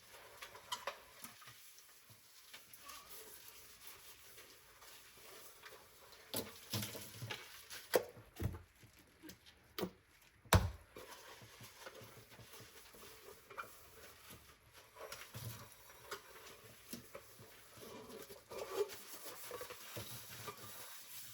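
Dishes being handled in a kitchen sink: scattered clinks and knocks of crockery and utensils, with a busier stretch in the middle and the loudest knock about ten and a half seconds in.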